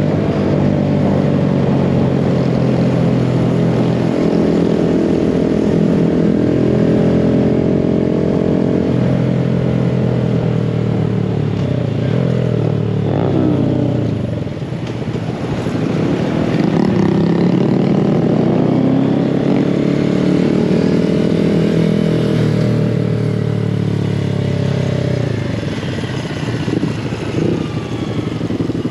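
Mini bike engine running under way at a steady speed. It eases off and picks back up about halfway through, then drops back again near the end.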